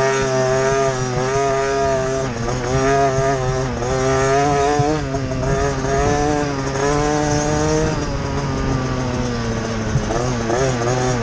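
Motocross bike engine heard from the bike's onboard camera, revving hard with its pitch rising and falling again and again as the rider works the throttle and gears. The revs ease off about eight seconds in, then climb quickly again near the end.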